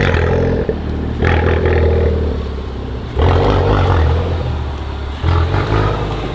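A car engine revved in repeated surges, each lasting a second or two.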